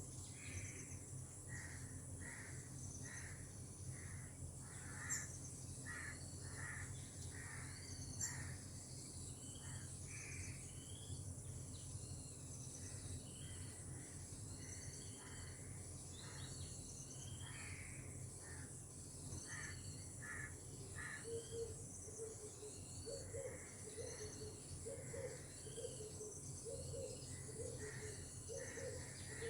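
Outdoor tropical ambience: a steady high chirring of insects under many short, repeated bird calls. From about two-thirds of the way in, a lower call repeats about once a second. Two brief sharp clicks come at about 5 and 8 seconds in.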